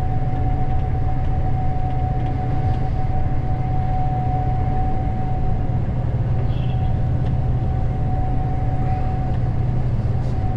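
Gleaner S98 combine running, heard from inside the cab: a steady low drone with a constant high-pitched whine over it.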